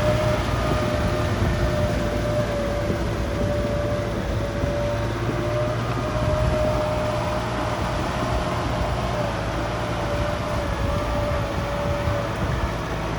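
Kubota tractor's diesel engine running steadily under load while driving a rotary tiller, with a low rumble and a steady, slightly wavering high whine.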